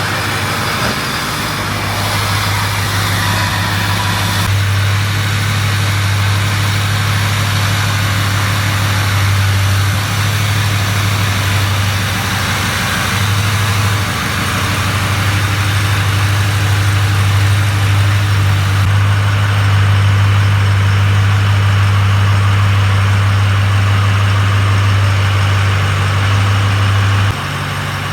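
Ford 6.0-liter Power Stroke diesel V8 running steadily, a deep even drone with a noisy hiss above it. The level shifts slightly a couple of times and drops near the end.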